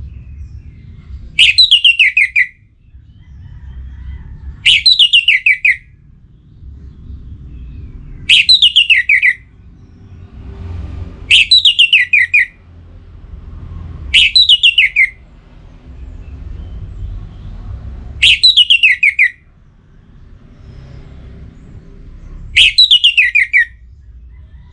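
Orange-headed thrush singing the same short phrase seven times, about every three to four seconds: each a quick run of clear notes falling in pitch, lasting about a second.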